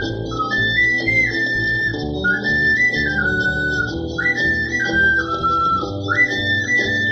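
Ocarina playing a melody of clear held notes that step downward in short phrases, over a backing accompaniment, recorded on a phone.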